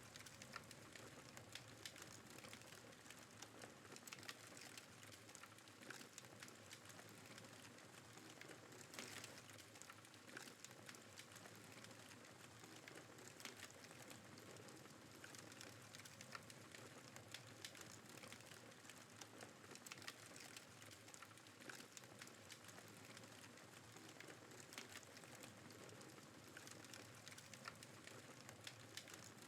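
Campfire crackling faintly: a steady hiss of burning wood with frequent small, irregular pops and snaps.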